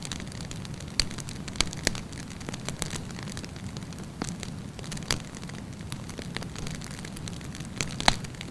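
Wood campfire burning with a steady low rumble and irregular sharp crackles and pops, the strongest pops about a second in and just before the end.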